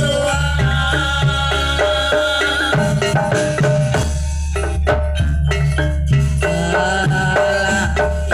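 Live jaranan gamelan music: hand drums beating with quick runs of metallic mallet-percussion notes over a steady low bass. Between about 4 and 6 s the melody notes thin out and the drums carry on alone.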